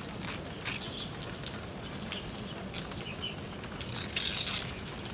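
Dry coconut palm leaves rustling and crackling as they are handled: a few sharp crackles, then a longer rustle about four seconds in.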